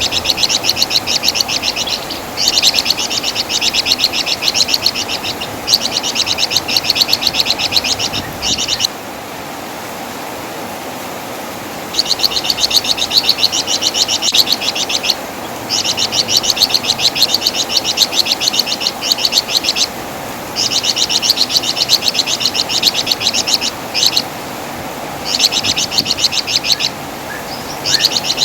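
Flamboyan (wergan Jawa) songbird chattering in long, fast runs of high, rapidly repeated notes, broken by short pauses, the longest about nine seconds in.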